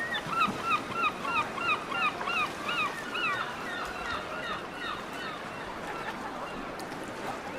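A bird calling a fast series of loud, repeated notes, about three a second, each rising then falling in pitch. The calls fade out about halfway through, leaving a steady background hiss.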